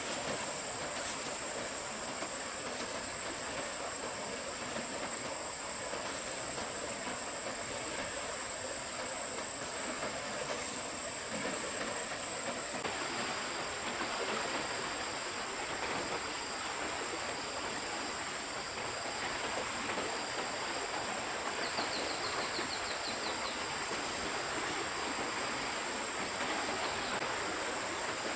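Stream water rushing steadily. A continuous high insect drone runs over it, and from about halfway intermittent high insect chirps join in.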